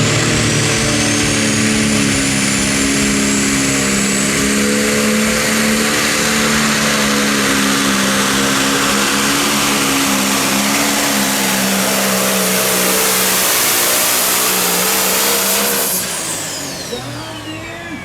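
A Pro Stock pulling tractor's turbocharged diesel engine runs flat out under load as it drags the sled, with a high turbo whine climbing in pitch early on. About 16 seconds in, the throttle is cut: the level drops and the engine and turbo whine wind down in pitch.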